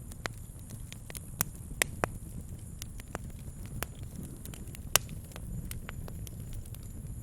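Wood campfire crackling, with irregular sharp pops, a few louder than the rest, over a low steady rumble.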